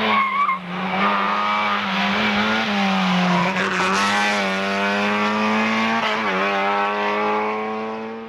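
Race car engine running hard at high revs, its pitch holding with small rises and falls and two brief dips, about half a second and six seconds in. A short tyre squeal comes right at the start.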